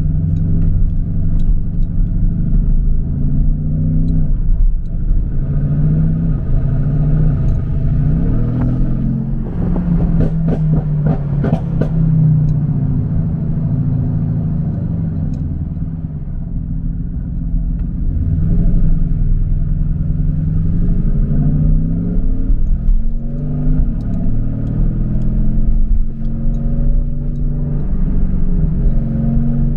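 Mercedes-AMG GT S twin-turbo V8 with aftermarket downpipes, driven on the road: the engine note climbs and drops repeatedly as it accelerates and shifts, with a run of sharp exhaust crackles about ten seconds in.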